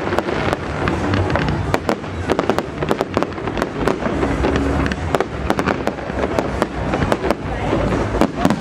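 Fireworks going off: a rapid, irregular string of sharp bangs and crackles, several a second, over a steady low rumble.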